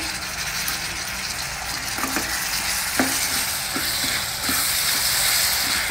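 Chopped tomatoes, shallots and pumpkin sizzling in hot oil in a stainless steel kadai while a wooden spatula stirs them, knocking lightly against the pan a few times. The sizzle grows louder a little past halfway.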